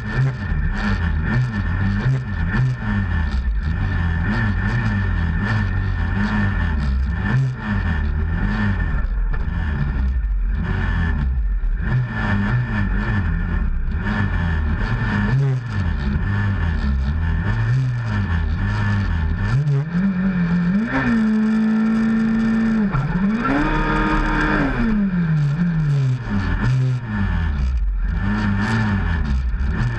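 Front-wheel-drive drag car's engine heard from inside the stripped cabin, idling with a pitch that keeps wavering up and down. About twenty seconds in it is revved and held steady for a couple of seconds, then revved once more briefly and drops back to idle.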